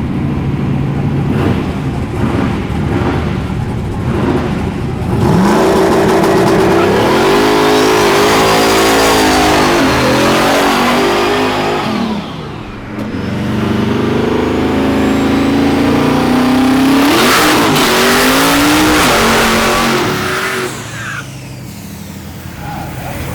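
Drag-racing big-wheel cars' engines at full throttle, their pitch climbing and dropping through gear changes. The engines run lower for the first few seconds, go loud at about five seconds in, dip briefly around twelve seconds in, build again, then fade near the end.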